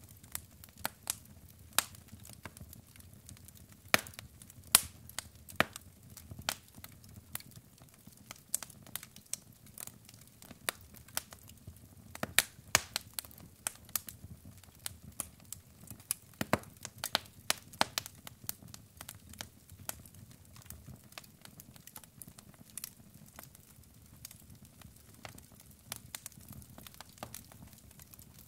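Wood logs burning in a fireplace: irregular sharp crackles and pops over a low, soft rumble of flame, with a few louder pops scattered through.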